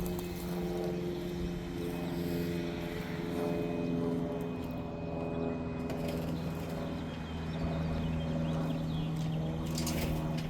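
Electric chainsaw running steadily as it cuts into a tree-trunk log.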